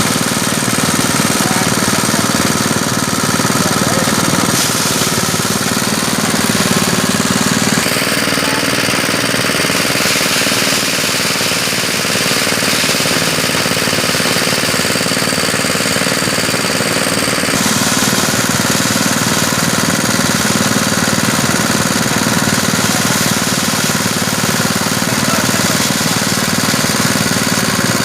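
Mini rice thresher running: its small engine and spinning threshing drum make a loud, steady mechanical clatter, the tone shifting slightly a few times.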